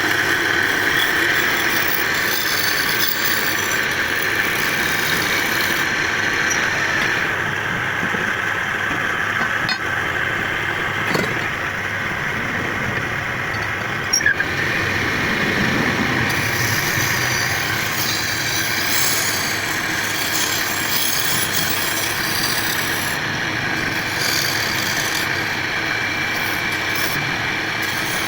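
Wood-turning lathe running steadily while wood is being cut, with a brief clatter about fourteen seconds in.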